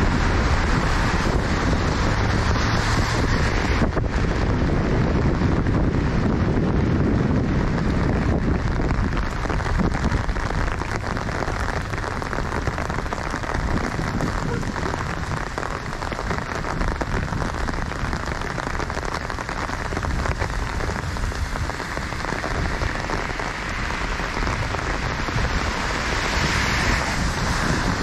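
Steady rain: an even hiss of falling drops with many small taps close by. A low rumble of street traffic sits under it in the first few seconds, and the hiss swells louder near the end.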